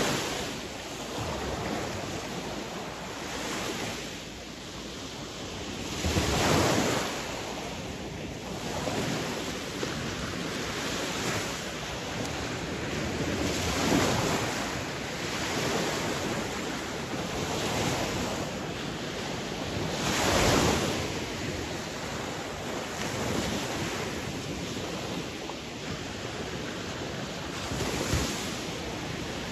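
Sea waves breaking on a shore, a steady wash of surf that swells into a louder surge every six to eight seconds, five times.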